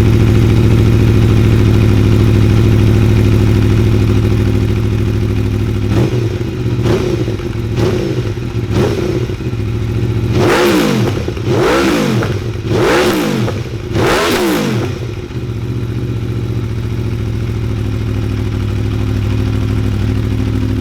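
2018 Aprilia Tuono V4 1100 Factory's V4 engine through an Akrapovic exhaust with the baffle (dB killer) still fitted, idling just after start-up. About six seconds in come four quick throttle blips about a second apart, then four longer, higher revs, and it settles back to a steady idle.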